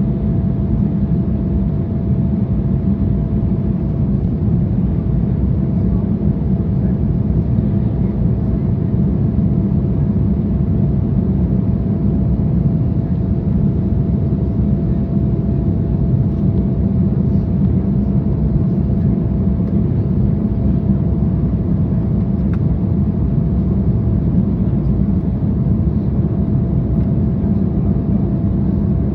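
Steady cabin noise inside an Embraer 175 jet airliner in flight: a low rumble from its GE CF34 turbofan engines and the airflow, with a thin steady tone running through it.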